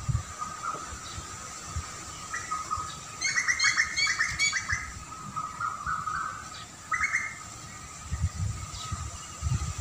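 Wild songbirds chirping: a quick run of repeated chirps about three seconds in and a shorter one about seven seconds in, over a steady high thin tone. Irregular low rumbles run underneath, strongest near the end.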